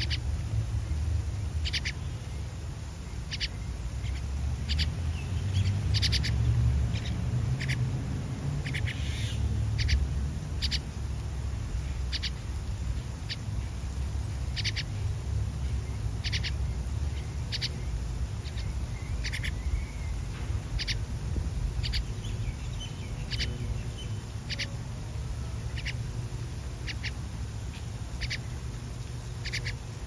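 Short, sharp bird chirps repeating roughly once a second, over a steady low rumble.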